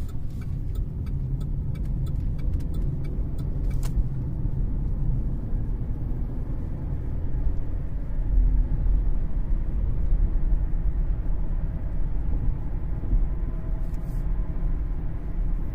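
Steady low road and drivetrain rumble inside the cabin of a 2013 Cadillac CTS rear-wheel-drive sedan cruising, with a few faint short knocks near the start, about four seconds in and near the end.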